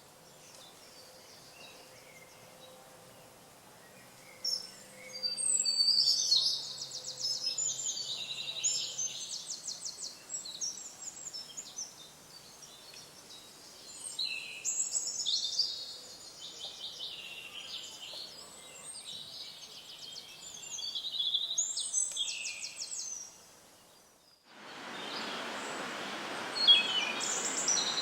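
Small wild birds singing and calling, with several loud, rapid trilled songs and chirps, the loudest about 5 to 10 seconds in. Near the end the sound cuts to a steady rushing background noise with more bird chirps.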